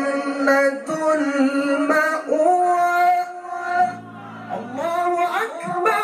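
A male qari's voice holding a long, ornamented melodic phrase of Quran recitation in the drawn-out mujawwad style. The pitch steps up about two seconds in, the sound dips briefly around four seconds, then slides upward near the end.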